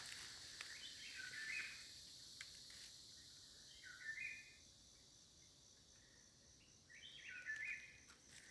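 Faint forest ambience: a bird calling three times, each a short phrase of a few quick notes a few seconds apart, the last the loudest, over a steady high hiss of insects.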